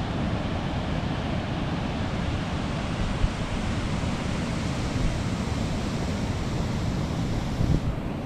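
Ocean surf washing ashore as a steady roar, with wind buffeting the microphone.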